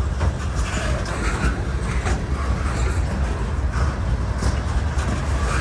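Freight train boxcars rolling past close by: a steady low rumble with irregular clanks and clicks from the wheels and cars.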